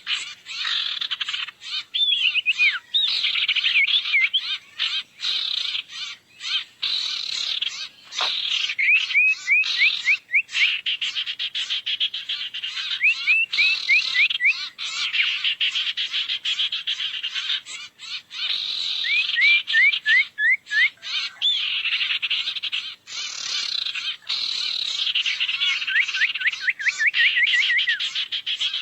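Bird-lure recording of a dense chorus of small birds chattering and twittering, broken by repeated short runs of quick rising chirps.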